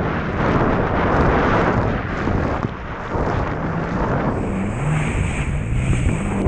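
Wind buffeting the microphone on a moving jet ski, with the watercraft's engine audible underneath, its pitch wavering in the second half.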